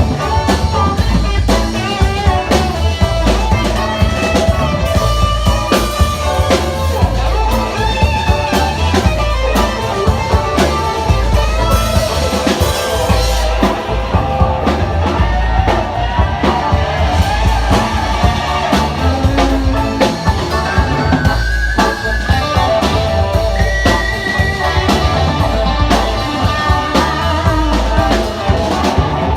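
Live rock band playing an instrumental passage: electric guitar over a steadily beating drum kit.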